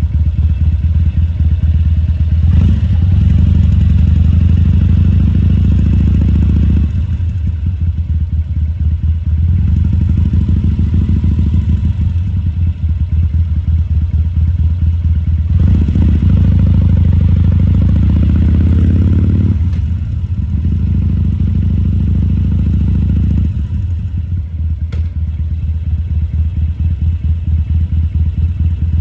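2014 Harley-Davidson Sportster XL1200C's air-cooled V-twin engine running at low speed. The throttle is opened and eased off about four times, so the engine note rises and falls. A single sharp click comes near the end.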